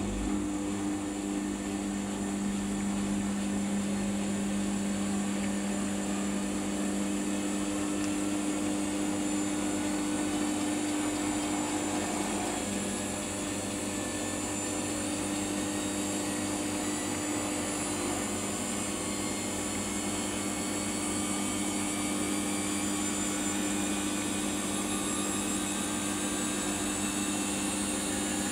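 Samsung washing machine spinning its drum: a steady motor hum with a high whine that rises slowly in pitch as the spin speed builds.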